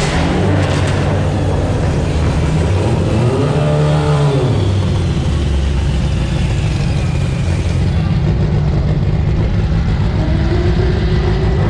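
Car engine running with a steady low rumble, revving up and back down once about four seconds in.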